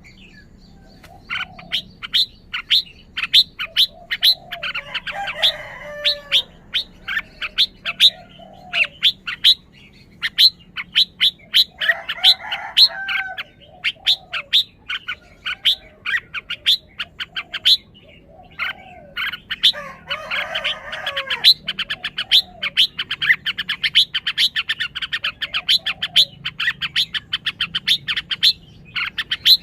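Red-whiskered bulbul calling with a long run of short, sharp chirps, about two a second and coming faster in the last third. Brief warbling song phrases break in three times, with soft lower notes between the chirps.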